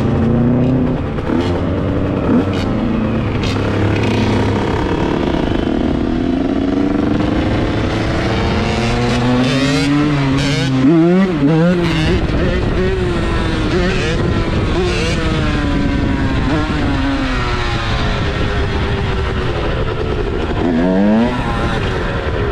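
Dirt bike engine noise, running and revving with its pitch rising and falling over and over. There is a burst of quick revs about eleven seconds in and a sharp rev-up near the end.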